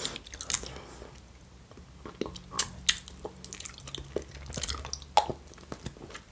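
Close-miked chewing and wet mouth smacks of someone eating dense goose-liver pâté, with a few louder clicks.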